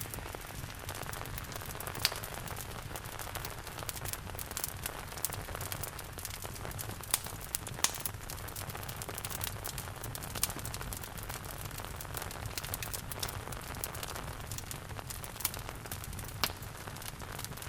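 Steady rain hiss mixed with a wood fire crackling in a fireplace, with scattered small crackles and a few louder sharp pops.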